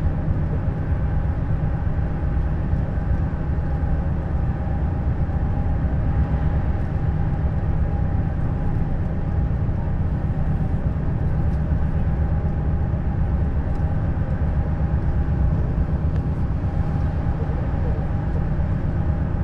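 Neoplan Skyliner N 1122/3C double-decker coach under way: a steady low drone of engine and running noise with a fixed higher tone over it, holding the same pitch and loudness throughout.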